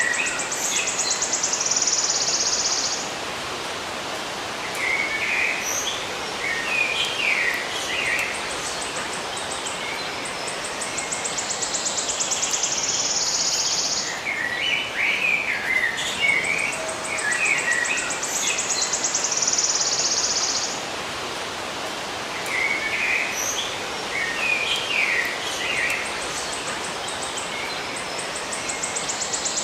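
Songbirds chirping in short clusters, with a high, rapid trill lasting a few seconds that recurs several times over a steady hiss of outdoor ambience.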